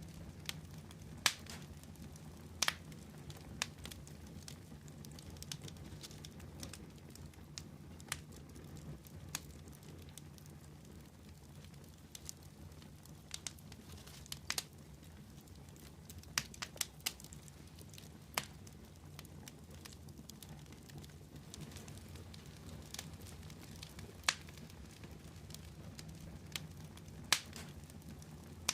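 Fire crackling: irregular sharp pops and snaps, some much louder than others, over a steady low rumble.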